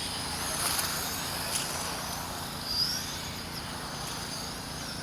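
Electric 17.5-turn brushless RC buggies and short course trucks racing on an off-road track: a steady wash of high motor whine and tyre noise, with a sharp click about a second and a half in and a brief rising whine as a car accelerates near the three-second mark.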